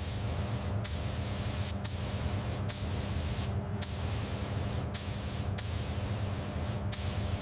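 Steady spraying hiss with a low hum beneath it, broken by short, sharper hisses or clicks about once a second at irregular intervals.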